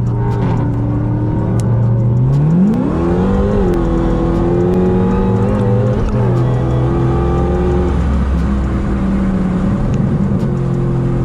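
Dodge Hellcat's supercharged 6.2-litre V8 under hard acceleration. The engine note climbs steeply about two seconds in and holds high, with a brief dip partway through, then drops back to a steady cruise near the end.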